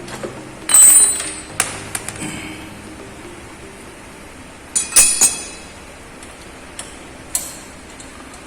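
Several sharp metal clinks and clanks with a brief high ring, loudest about a second in and again in a quick cluster near five seconds in, with fainter ones later: tools and steel bracket hardware being handled while a motorcycle carrier bracket is fitted.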